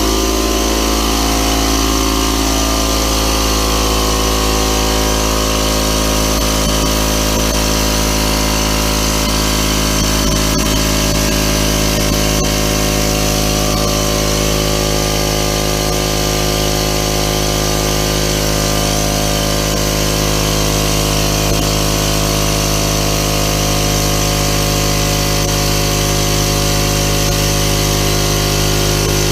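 Central Pneumatic 26-gallon, 1.8 HP oil-less air compressor running steadily, its motor and pump filling an emptied tank toward 100 PSI.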